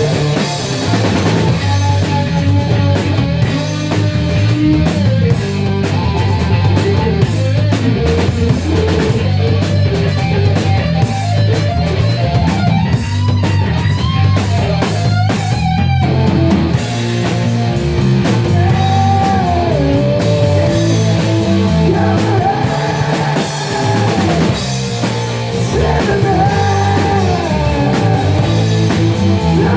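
Rock band playing: electric guitar with bending melodic lines over drum kit and bass.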